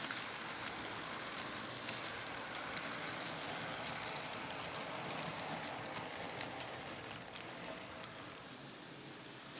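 N scale model train, an Athearn F59 locomotive pulling Bombardier coaches, running on the track: a steady whirring hiss of motor and wheels with scattered clicks, getting quieter after about seven seconds.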